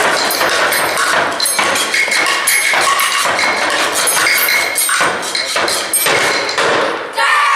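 A fast, irregular run of knocks and thuds, like percussion or stomping. Near the end a loud shout with a falling pitch breaks in.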